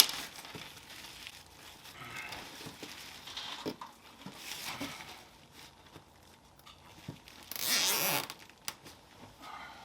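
Plastic trash bag crinkling and rustling as it is handled and wrapped in place, with zip ties ratcheting tight. The loudest rustle comes about eight seconds in.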